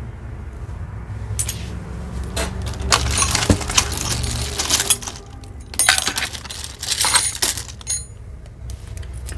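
Costume jewelry clinking and rattling as pieces are handled and put into a box, in several short bursts of clatter.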